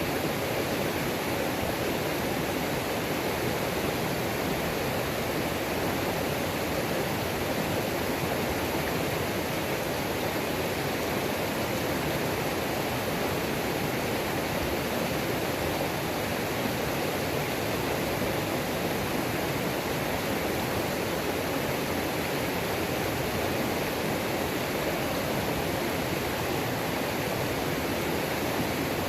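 Waterfall on a mountain creek, a steady unbroken rush of falling water.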